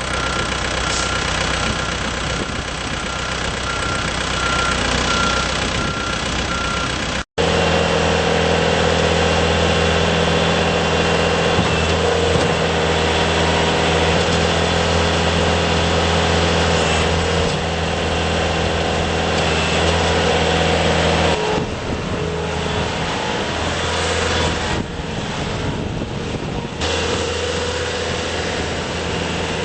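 Bobcat S250 skid steer's Kubota diesel engine running steadily, its note shifting a few times. A row of short, evenly spaced high beeps sounds over the first six seconds or so, and there is a momentary dropout about seven seconds in.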